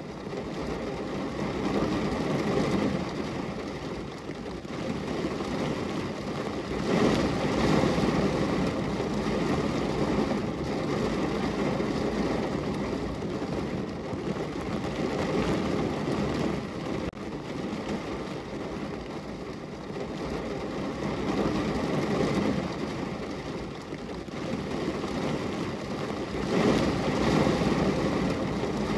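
Rain falling on a window, an even noise with a low rumble that swells and fades every several seconds. It is loudest about seven seconds in and again near the end.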